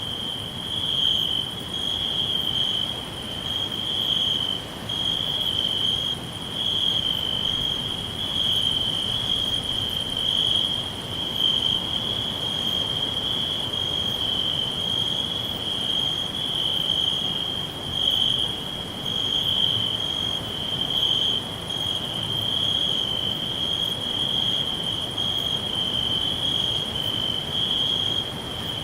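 Crickets chirping in a continuous high trill at one steady pitch, pulsing slightly in loudness.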